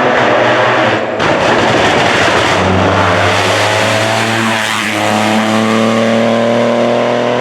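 Rally car engine running hard at high revs, the pitch climbing, with a short break about a second in and then a long, slow rise in revs under acceleration.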